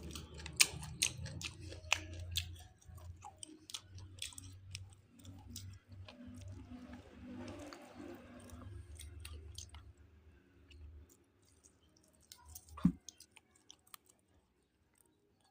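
A person chewing grouper fish close to the microphone, with wet mouth clicks and smacks, loudest in the first few seconds. A low hum runs underneath and stops about three-quarters of the way in, and a single sharp knock comes near the end.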